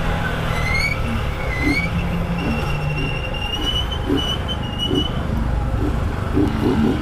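Motorcycle engine running at cruising speed with steady wind rush on the rider's microphone, plus a few brief high-pitched squeaks and a thin whistle-like tone partway through.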